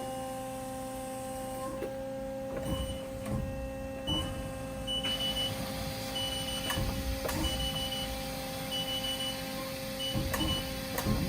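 Haas SL30T CNC lathe humming steadily while its tailstock is operated, with a series of short high beeps and a few low knocks. A steady whirring noise sets in about five seconds in.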